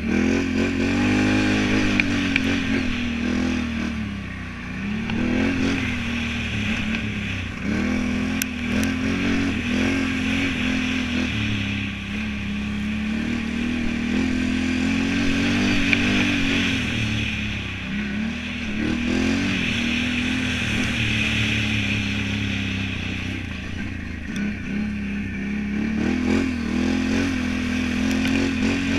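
Can-Am Renegade 1000 ATV's V-twin engine under riding load, its pitch climbing and dropping over and over as the throttle is opened and eased off.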